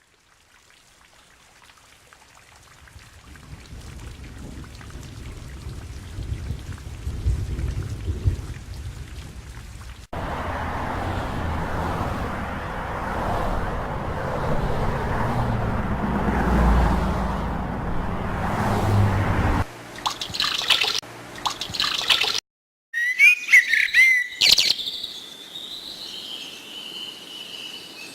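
A string of separate sound effects: a low rumble swells for about ten seconds, then a loud, steady, dense hiss runs for about ten seconds, then come a few short clips, and bird chirps fill the last few seconds.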